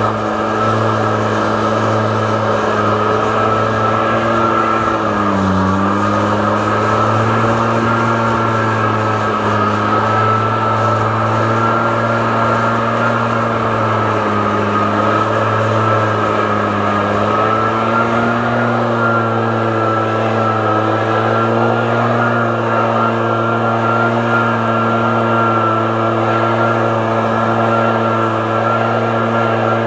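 Truck engine running steadily while driving, its pitch dipping briefly a few times as the speed eases off and picks up again.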